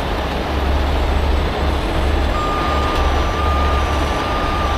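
Heavy truck running with a low, steady rumble, and about halfway through a steady high-pitched warning tone starts up, like a truck's reverse alarm.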